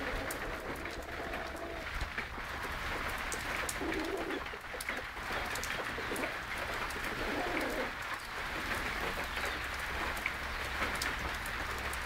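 Birds calling outdoors: a couple of low cooing notes, about four seconds in and again at about seven and a half seconds, over a steady hiss with scattered sharp ticks.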